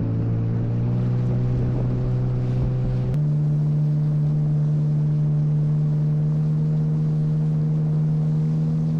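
Motorboat's outboard motor running at a steady speed over water noise, its pitch stepping up abruptly about three seconds in.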